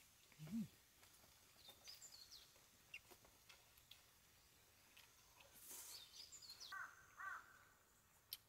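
Faint outdoor birdsong: a few high chirps and, about seven seconds in, two short harsher calls in quick succession. A short low note rises and falls about half a second in.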